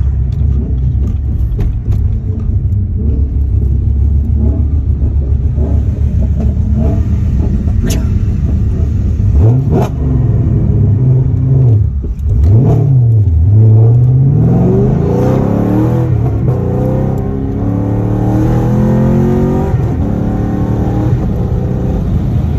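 Cammed Chevrolet Camaro engine heard from inside the cabin while driving. It drones steadily at low revs for about nine seconds, swings sharply up and down twice, then climbs steadily as the car accelerates and levels off.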